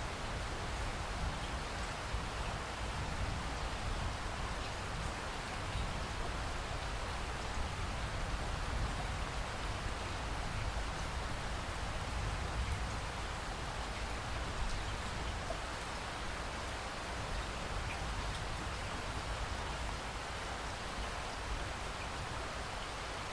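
Steady rain falling, an even hiss with a low rumble beneath and scattered drop patter.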